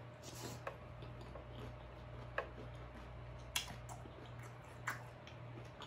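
Close-miked chewing of a mouthful of shrimp ceviche tostada: several short, sharp wet mouth clicks and smacks, spaced a second or so apart, over a faint steady hum.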